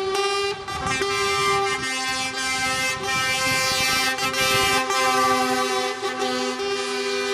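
Truck air horns blowing long, overlapping blasts at several pitches, one lower horn dropping in and out.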